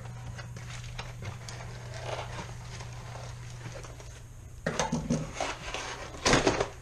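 Packaging being handled and pulled at while a paintball gun is worked out of a tight box: small scratches and clicks, then louder rustling bursts in the last two seconds, the loudest shortly before the end, over a steady low hum.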